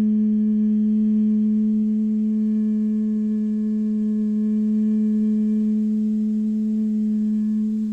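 One long, steady held tone at a single pitch with a row of even overtones, sounded as part of a toning or sound-healing offering.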